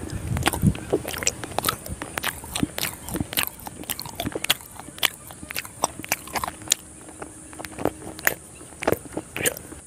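Close-miked chewing of a soft malai sandwich, a chhena milk sweet with a creamy filling: wet mouth smacks and irregular sharp clicks, several a second.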